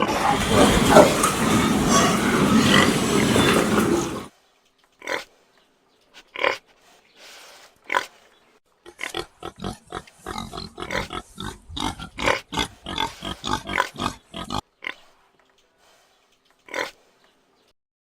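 Pigs grunting: a loud, dense jumble of overlapping pig sounds for the first four seconds that stops suddenly, then a few scattered short grunts, a quick run of many short grunts in the middle, and one last grunt near the end.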